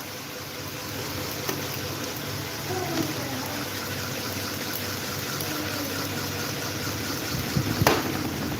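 Small electric table fan running: a steady whirring rush with a faint motor hum underneath. A short sharp click-like sound comes near the end.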